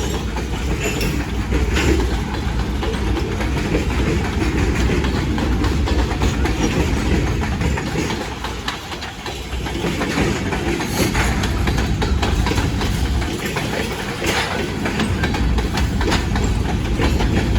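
Train rolling by, its steel wheels clacking over rail joints over a steady low rumble, dipping briefly about halfway through.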